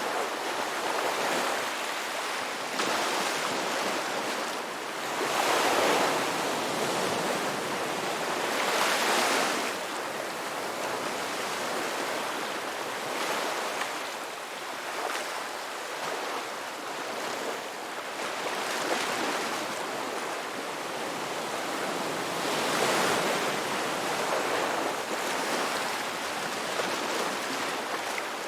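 Ocean surf: waves breaking and washing up on a beach in a continuous rush, swelling and fading every few seconds.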